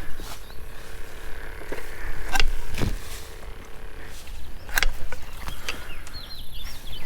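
Outdoor ambience with a steady low rumble, broken by a few sharp clicks about two and a half and five seconds in, and short chirping calls near the end.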